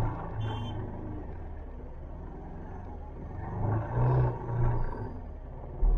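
Motorcycle engine and surrounding traffic moving slowly through a jam: a steady low rumble that swells a few times.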